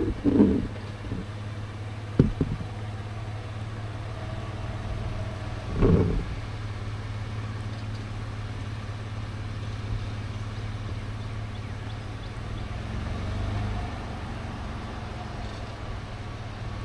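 Car running steadily with a low drone, broken by a few short knocks in the first six seconds.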